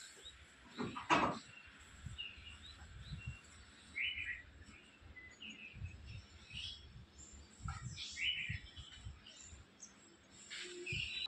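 Birds chirping, short scattered calls throughout, over a faint low rumble of outdoor background. A brief loud burst of noise stands out about a second in.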